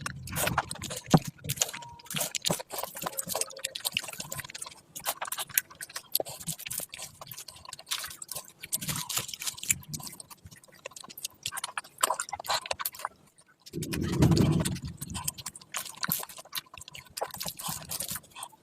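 Close-miked wet eating sounds of curry and rice: a dense run of small clicks, smacks and squelches from chewing, with a louder, low, muffled stretch of about a second roughly three-quarters of the way through.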